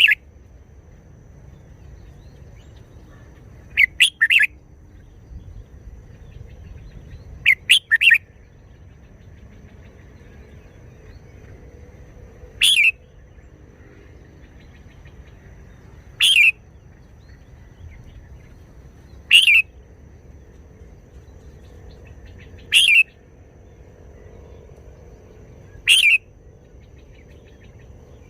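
Red-whiskered bulbul singing short, clear phrases, one every three to four seconds. The first few phrases are two or three quick notes; the later ones are single brief notes.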